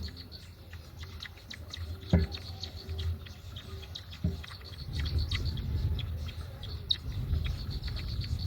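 Scattered short, high bird chirps and ticks over a low rumble that grows louder about halfway through, with a dull thump about two seconds in and another about four seconds in.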